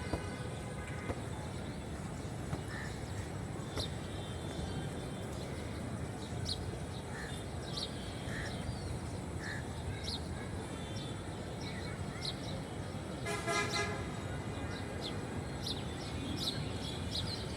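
Steady urban outdoor background noise with short high bird chirps scattered throughout, and a vehicle horn sounding once, briefly, a little past the middle.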